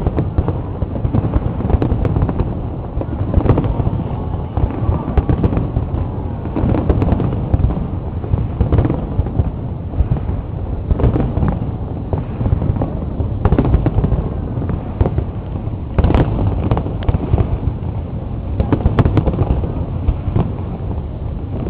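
Aerial fireworks display: a dense, continuous barrage of bursting shells, with sharp bangs one after another over a steady rumble.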